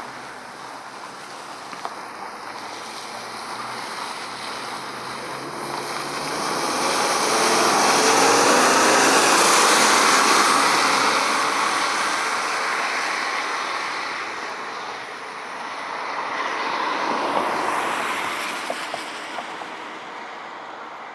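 A vehicle passing by on the road: engine and tyre noise swells to a peak about halfway through, then fades. A second, smaller pass follows a few seconds before the end.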